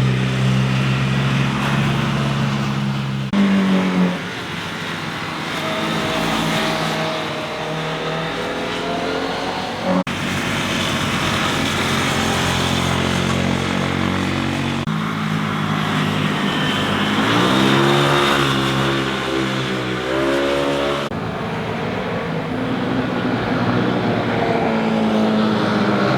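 Sport motorcycles riding past through corners, their engines revving up and dropping in pitch as they accelerate and shift. The sound changes abruptly several times, as one pass gives way to the next.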